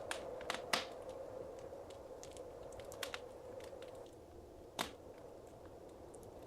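Wood fire crackling in a fireplace: a steady soft hiss of flames with irregular sharp pops and snaps, the loudest ones near the start and about five seconds in.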